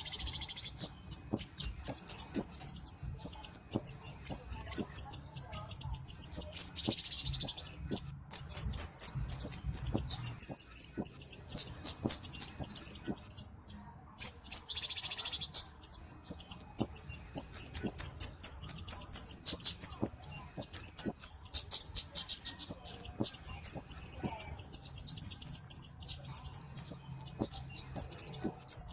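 A Kemade cabe-cabean (flowerpecker) singing: long runs of rapid, high, sharp ticking notes, broken by short pauses about eight seconds in and again around the middle. A short hiss sounds twice, close to the pauses.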